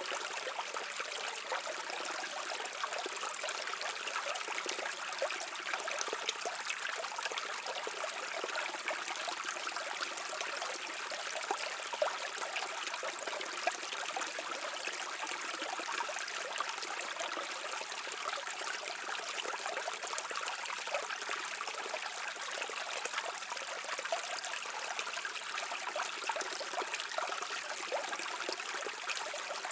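A brook babbling and trickling over stones, a steady even rush of water with small splashes throughout.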